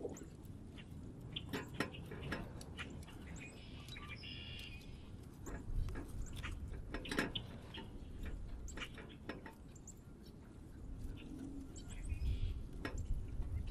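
Small songbirds calling with many short, sharp chips and a few brief chattering calls, over a low rumble.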